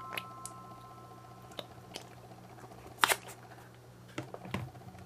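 Light taps and clicks of a plastic ice-pop mold and small plastic toy figures being set down on a hard tabletop, about six in all, the sharpest about three seconds in. A chime tone dies away at the start.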